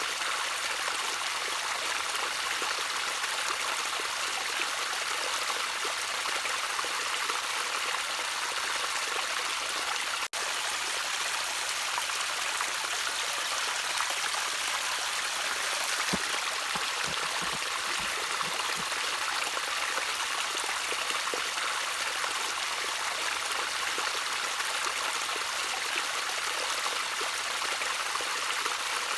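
Gentle trickling water of a small stream, running steadily as an even rushing hiss. The sound cuts out for an instant about ten seconds in, and a few faint low knocks come in around the middle.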